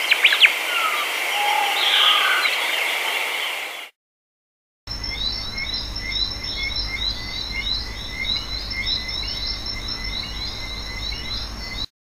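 Wild birds calling, with short gliding calls over a steady hiss. The sound cuts out for about a second around four seconds in, then resumes as a run of quick, repeated high chirps, a few a second, over a low hum.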